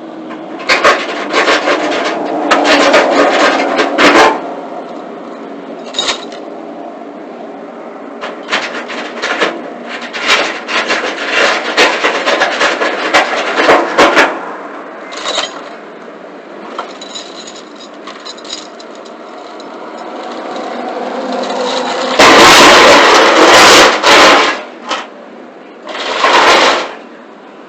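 Irregular scraping, rubbing and clattering of freight being unloaded from a flatbed trailer, with two louder rough stretches near the end.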